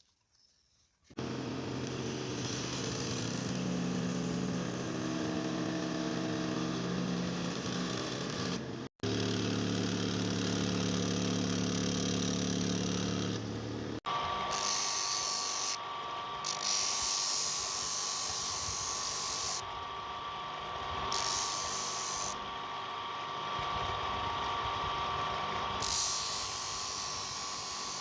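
Electric power tools running steadily in edited segments. A motor hum with a steady pitch is cut off abruptly about 9 seconds in and resumes, then gives way to a different, higher-pitched tool whine about halfway through.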